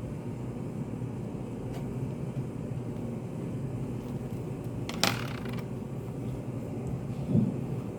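Study café room tone: a steady low hum, with a sharp clack about five seconds in and a dull thump near the end.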